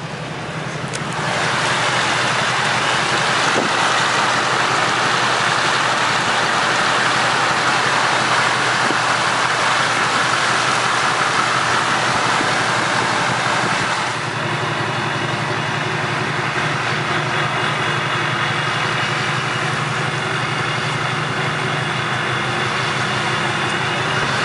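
Duramax diesel pickup engine running steadily. For the first half a loud, even rushing hiss lies over it and cuts off abruptly about halfway, after which the engine is heard more plainly.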